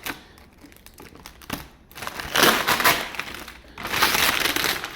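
Plastic packing wrap on a kayak crinkling and rustling as it is cut and pulled away, with a few faint clicks and then two loud spells of rustling, each about a second long, in the second half.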